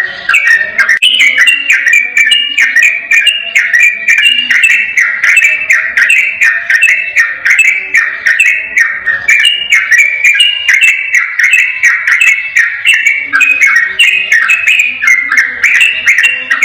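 Sooty-headed bulbul (trucukan) singing a fast, continuous run of short rising and falling whistled notes without a break.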